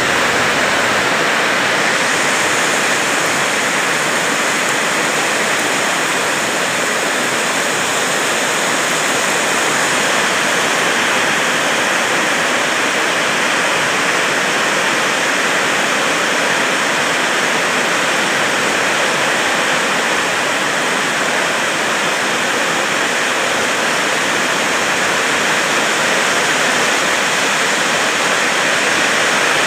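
Heavy tropical rain pouring down in a steady, dense hiss that keeps an even level throughout.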